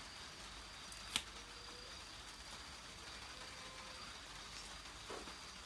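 Faint night-time background with a thin, steady high hum, broken by one sharp click about a second in and a brief, faint sound about five seconds in.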